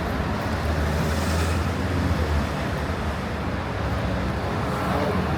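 Busy street traffic: vehicle engines running with a steady low rumble that swells for a couple of seconds near the start, over general city noise.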